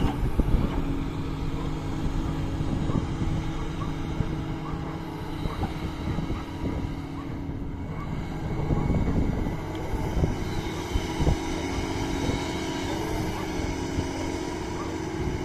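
Doosan DX225 excavator's diesel engine running steadily while it works, with scattered knocks and clanks throughout.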